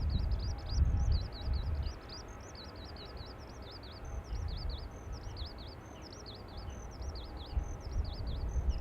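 A songbird singing a continuous, rapid, high warbling song without a break, over gusts of wind buffeting the microphone that are strongest in the first two seconds and again near the end.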